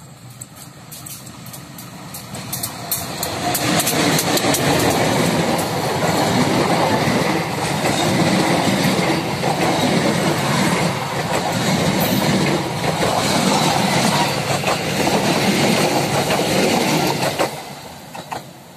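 Passenger train hauled by a diesel-electric locomotive passing close by: the locomotive's engine builds as it approaches, then the coaches go by with wheels clattering over the rails. The noise drops off suddenly about a second before the end, as the last coach passes.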